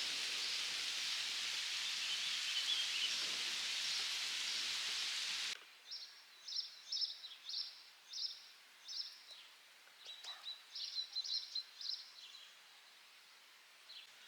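A steady rushing noise, like rain or wind, cuts off abruptly about five and a half seconds in. After that a small songbird sings bursts of quick, high chirping notes, in two runs about two seconds apart.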